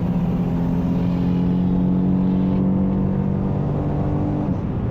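The Pontiac Grand Am GT's 3.4 L 3400 V6 running hard at high rpm with a nearly steady pitch, holding in gear rather than climbing. This fits the owner's complaint that the higher-rpm shift comes too late and the engine just revs without making power.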